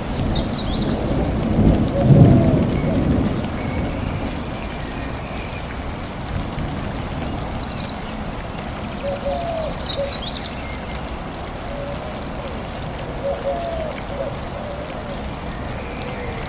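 Steady rain falling, with a low rumble of thunder swelling about two seconds in and fading over the next couple of seconds. Faint short chirps recur over the rain.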